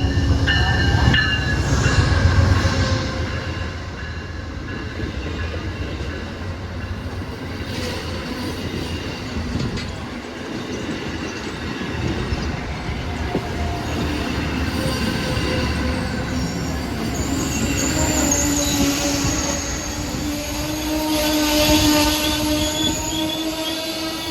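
Amtrak passenger train arriving. The locomotive and cars rumble past heavily at first, then in the second half steady high squealing tones join in as the wheels and brakes squeal while the train slows.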